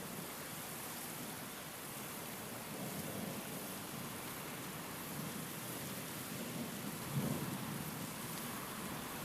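Steady rain hiss with low rolls of thunder, the loudest thunder crack about seven seconds in, then rumbling away.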